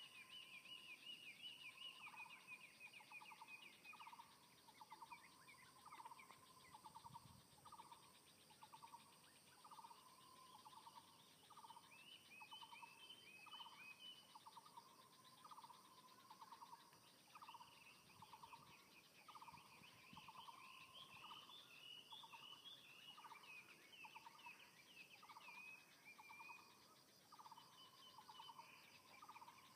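Faint morning birdsong. One bird repeats a short, pulsed call about once a second, while other birds chirp higher in bouts at the start, in the middle and through the second half.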